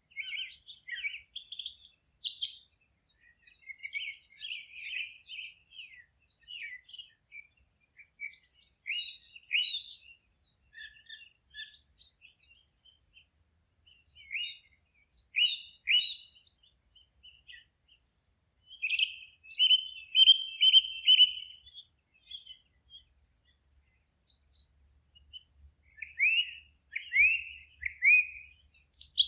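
Wild songbirds singing: a string of short, high chirps, whistles and quick trills from more than one bird, with brief pauses between phrases and a longer rapid trill about two-thirds of the way through.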